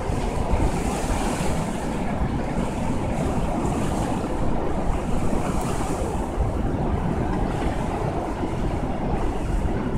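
Violent storm wind blowing steadily, with a low rumble of wind buffeting the microphone and a rushing hiss that swells with the gusts several times.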